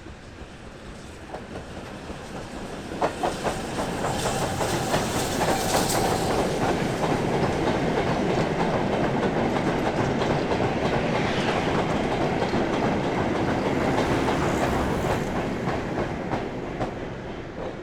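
A train passing close by on the line, its wheels running over the rails, with a few sharp knocks as it comes up. The sound swells about three seconds in, stays loud for about ten seconds, then dies away.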